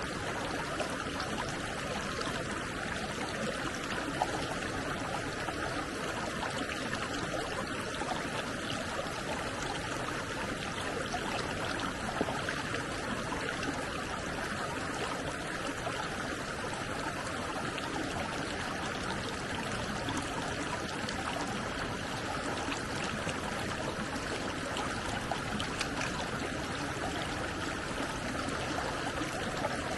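Stream water flowing steadily, an even rushing and trickling with a few faint ticks.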